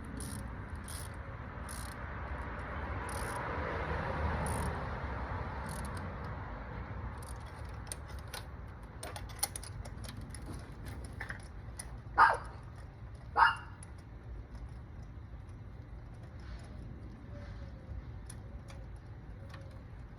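A dog barks twice, about a second apart, over a steady outdoor rumble and scattered faint clicks.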